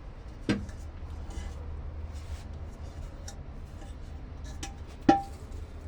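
Metal knocks and small clinks from handling an aluminium pressure cooker and its handle rivets. There are two sharper knocks, one about half a second in and a louder one near the end with a brief metallic ring, over a low steady hum.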